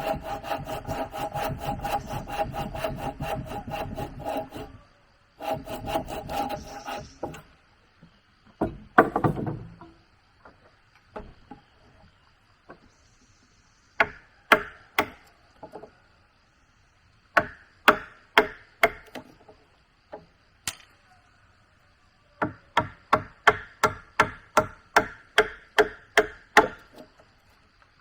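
A hand saw cutting through wood in quick back-and-forth strokes: one long bout, a short pause, then a second shorter bout. Scattered sharp knocks of wood on wood follow. Near the end another run of steady strokes begins.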